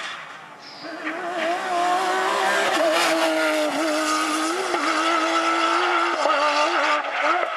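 Porsche rally car's flat-six engine at full throttle: the revs climb about a second in and are then held high for several seconds, with brief dips as the driver lifts or shifts.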